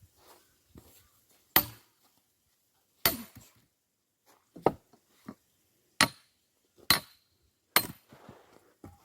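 Axe splitting firewood: six sharp chopping strikes about a second to a second and a half apart, each a short crack of wood.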